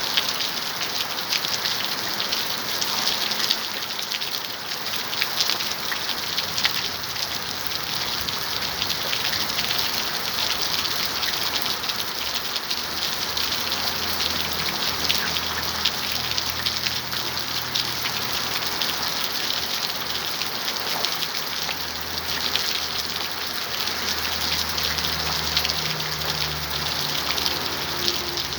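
Steady rain falling, a dense patter of drops. A faint low hum comes and goes in the second half.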